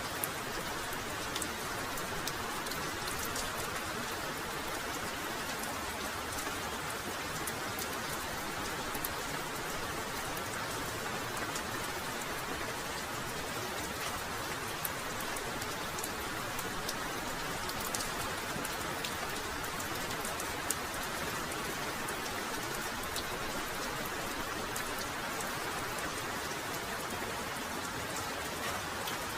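Heavy rain falling steadily, an even hiss with scattered sharp individual drop hits.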